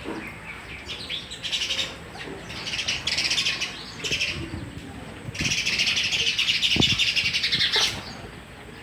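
Sparrows chirping and chattering in rapid overlapping bouts, with the densest, longest run of chatter in the second half.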